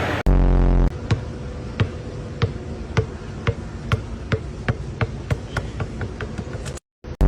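Irregular light tapping, about one to two sharp taps a second, with a short loud deep hum about a quarter second in and again at the very end.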